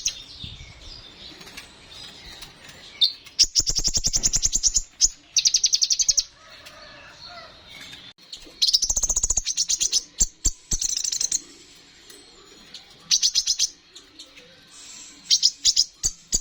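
Kolibri ninja, a small sunbird, singing in bursts of very rapid, high-pitched trills, several phrases of one to three seconds each separated by short pauses.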